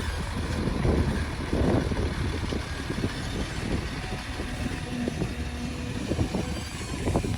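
Heavy diesel machinery at work, an excavator and dump trucks running, with a steady low engine rumble and irregular knocks and clatter.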